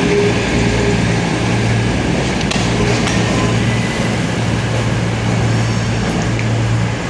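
CrossCountry diesel train running into the platform: a steady low engine hum that swells and fades over a broad rolling rumble.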